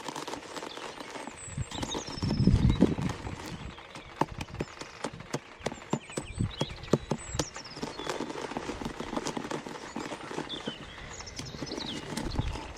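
Irregular clicks and knocks, with a louder low rumble about two seconds in, while small birds chirp now and then.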